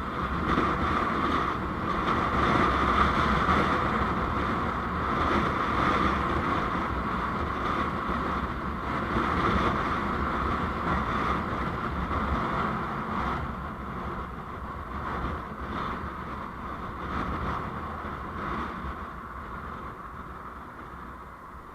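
Steady road and wind noise from a moving vehicle, a rushing haze with a low rumble, growing quieter over the last several seconds.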